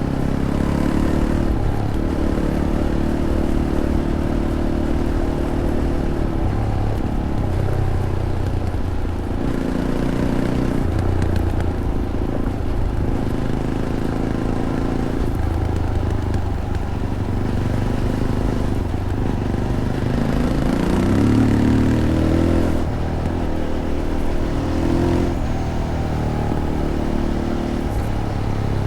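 Fantic Caballero 500's single-cylinder four-stroke engine through its stock Arrow exhaust, ridden on a trail: the engine note rises and falls again and again as the throttle is opened and closed, with a longer climb in pitch about three-quarters of the way through.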